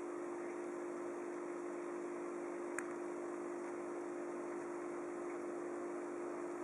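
Steady low hum with an even hiss behind it, and one faint click about three seconds in.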